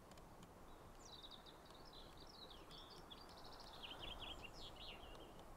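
Quiet outdoor background with a faint small bird singing a fast, twittering song of high chirps and short glides, starting about a second in.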